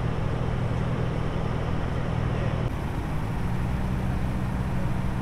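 Car engine idling with a steady low hum. The tone shifts abruptly a little over halfway through.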